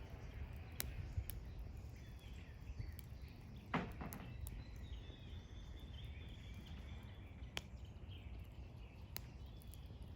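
Faint outdoor ambience: a steady low rumble with a few sharp clicks and one louder knock about four seconds in, and faint bird calls in the middle.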